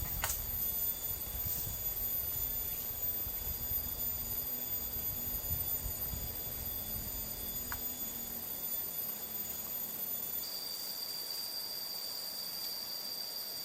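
Insects chirring in several steady high-pitched tones, with a low rumble and a few soft knocks under them that fade out about ten seconds in, when another high insect tone joins.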